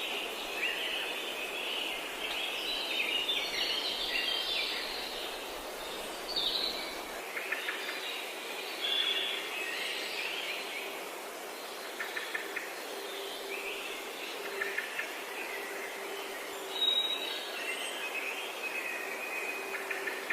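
Several wild birds singing in a forest, overlapping chirps and quick trills over a steady background hiss. A faint steady low drone joins about a third of the way through.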